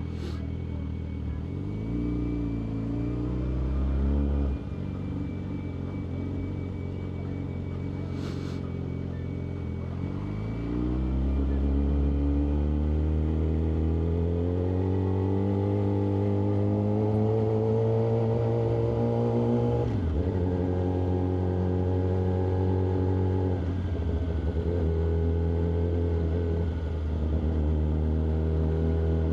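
Yamaha R6's inline-four engine on the road: a short rev about two seconds in that drops away, a few seconds of low running, then a long rising pull from about ten seconds in. The pitch drops suddenly at upshifts about two-thirds of the way through and twice more near the end, with steady running in between.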